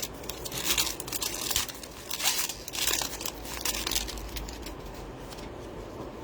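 Foil trading-card pack wrapper crinkling and being torn open, in a run of bursts that dies down after about four seconds.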